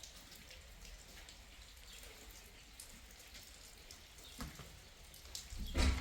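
Scattered light ticks and taps over a low background hum, then one loud thump near the end.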